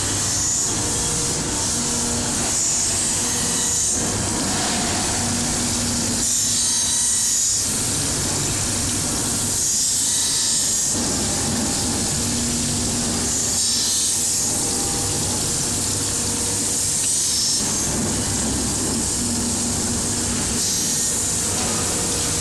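A compressor head being ground on a machine: a steady mechanical run with a grinding rub that swells and eases in a regular cycle, about every three to four seconds.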